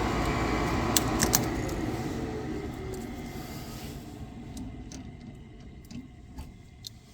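Gas furnace's fan motor spinning down after the furnace shuts itself off: a steady whir that falls in pitch and fades away over several seconds, with a few light clicks and knocks. The furnace is short-cycling, shutting off right after it lights.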